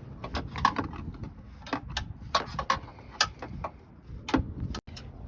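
Irregular metal clicks and clinks of hand tools and hold-down hardware being worked around a car battery.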